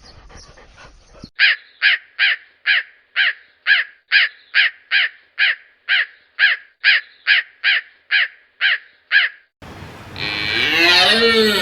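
An animal call repeated evenly about eighteen times, roughly two a second, each call short and falling in pitch. Near the end a louder, longer, lower call with a rising-and-falling, moo-like shape takes over.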